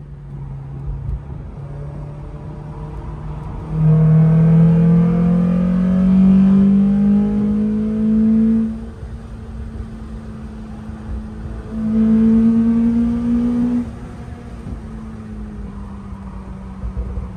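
Mazda MX-5's four-cylinder engine heard from inside the cabin during a hot lap. It runs at part throttle, then pulls hard under full throttle from about four seconds in with its pitch climbing steadily, lifts off about nine seconds in, and pulls again briefly about twelve seconds in.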